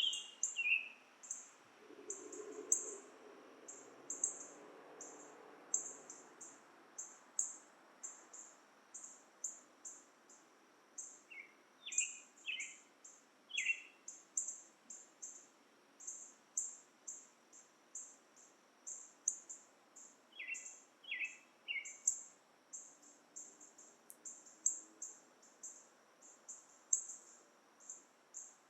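Dusk woodland chorus: a high, short chirp repeating steadily about twice a second, with a bird's whistled notes in short groups of three about 12 seconds in and again about 21 seconds in.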